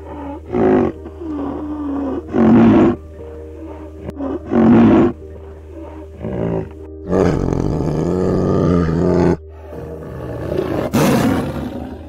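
A large wild animal calling loudly: several short calls, then two longer ones from about seven seconds in, over steady background music.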